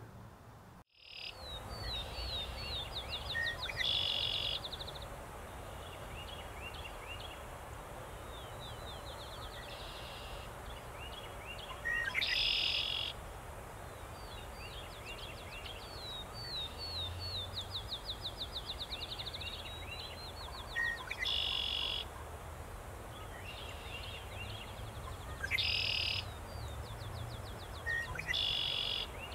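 A songbird sings the same short song over and over, every few seconds. Each song is a few quick sliding notes, a fast trill, then a brief buzzy ending, over a faint steady outdoor background hum.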